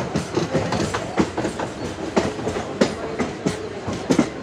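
A MEMU electric passenger train running along the track, its wheels clacking over the rail joints in irregular knocks, about two or three a second, over a steady rumble.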